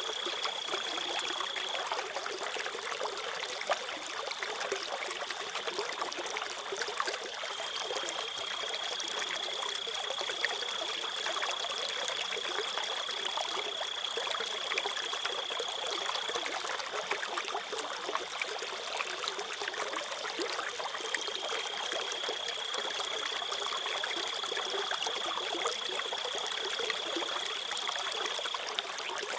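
Crickets singing in long, high, steady trills over a trickling stream. The loudest trill stops and starts again twice, while the water runs on unchanged.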